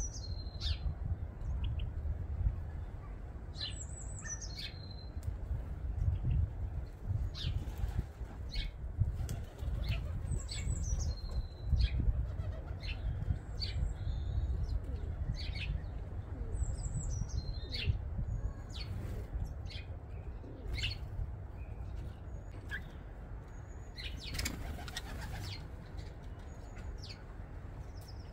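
Garden birds at a feeder: a short high chirp that falls in pitch, repeated every few seconds, with scattered sharp clicks and a flurry of flapping wings about 24 seconds in, over a steady low rumble.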